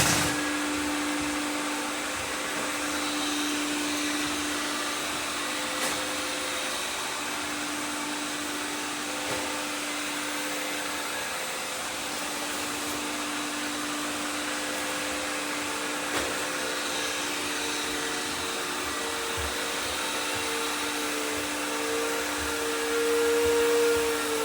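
Robot vacuums running together: a steady whirring hiss with two low steady hum tones and a few faint clicks.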